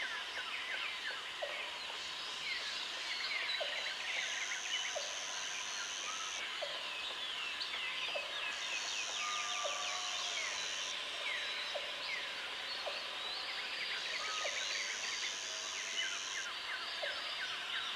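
Tropical forest ambience: a dense chorus of many birds chirping and whistling over a steady insect drone. A high insect buzz comes in three times for about two seconds each.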